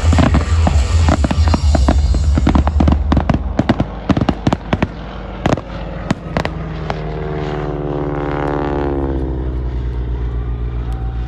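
Fireworks banging and crackling in a rapid string over music with a heavy steady bass. The bangs thin out and stop about six and a half seconds in, leaving a steady pitched drone.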